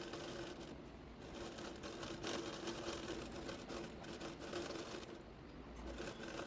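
Needle and thread being pushed and pulled through fabric stretched in an embroidery hoop, giving soft irregular rustles and small pops. A steady low hum runs underneath.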